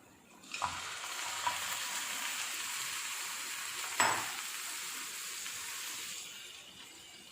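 Bone-in chicken pieces going into a hot pan of coconut oil with fried onion and chilli and sizzling hard. There is a sharp knock about four seconds in, and the sizzle dies down near the end.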